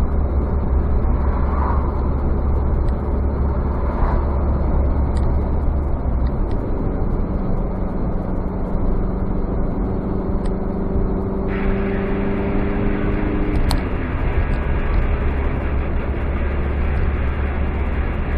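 Car driving along a road: a steady engine and tyre rumble, with a steady droning hum joining in for several seconds in the middle.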